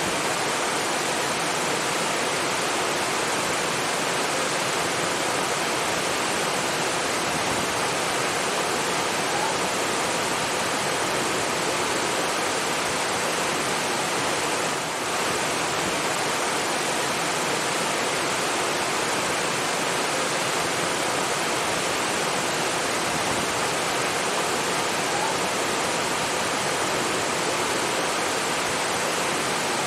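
Steady rush of flowing water, such as a waterfall or fast stream, an even full hiss that dips only briefly about halfway through.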